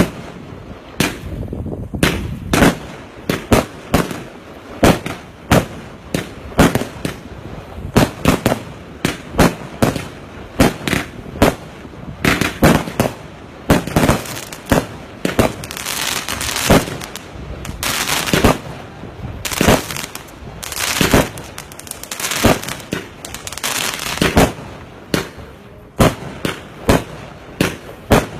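Multi-shot firework cakes firing a rapid, irregular string of sharp bangs, two or three a second, with stretches of crackling hiss in the middle.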